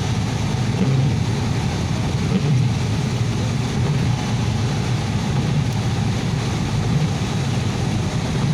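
Steady road noise of a car driving on a rain-wet highway, heard from inside the cabin: a constant low rumble with a hiss above it.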